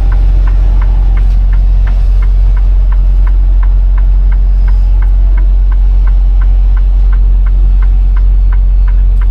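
Semi-truck cab interior: the diesel engine's steady low drone, with the turn signal clicking evenly about three times a second.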